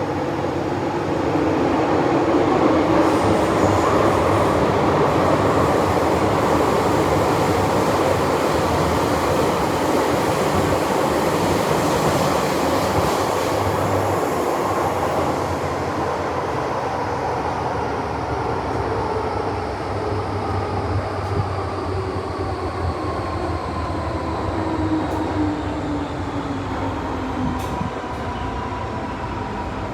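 MTR Island Line M-train running in the tunnel, heard from inside the car: steady wheel and running noise. From about halfway through, the traction motor whine falls steadily in pitch as the train slows.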